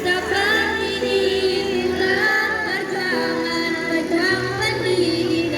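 Choir of girls and young women singing a song with long held notes; a steady low note joins about three-quarters of the way through.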